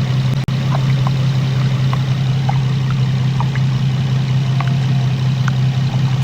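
Infiniti G35's VQ35HR V6 idling steadily at operating temperature, with the thermostat open, while its coolant system is burped. A few faint short ticks sound over the even hum, which cuts out briefly about half a second in.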